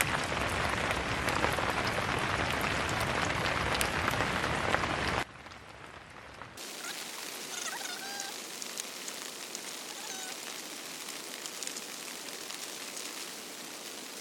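Heavy rain falling on a tent's fabric, loud and steady, cutting off abruptly about five seconds in; after that a quieter, lighter rain with a few short chirps.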